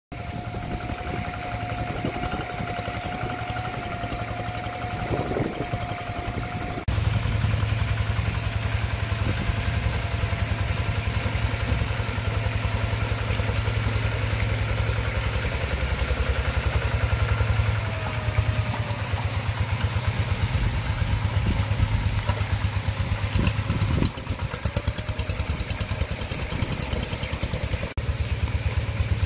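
Single-cylinder diesel engine of a walking rice-field tractor running steadily with a rapid even chugging; the sound jumps abruptly in level a few times.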